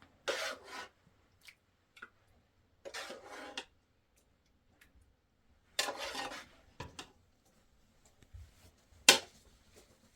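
Three rasping scrapes on a hard surface, each under a second long and a few seconds apart, then a single sharp knock near the end.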